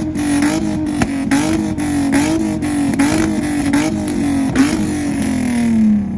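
Hyundai Genesis Coupe 3.8-litre V6 held against its two-step launch-control rev limiter: a steady high-revving note chopped by frequent sharp exhaust cracks and pops. Near the end the revs sag and fall away as the throttle is let off.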